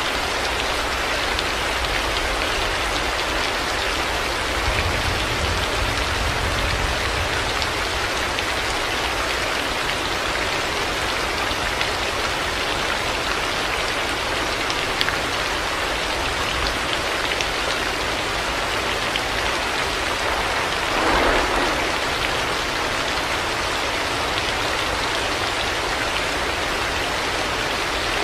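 Heavy rain falling steadily. A low rumble swells about five seconds in, and there is a brief louder rush about two-thirds of the way through.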